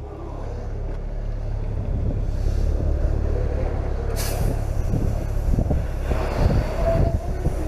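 Fire engine running with a steady low rumble while a fire hose sprays water, with a short sharp hiss about four seconds in.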